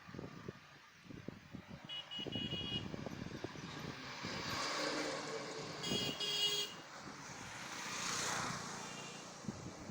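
Road traffic passing: two vehicles go by, each swelling and fading. Short bursts of high-pitched horn beeps sound about two seconds in and again about six seconds in.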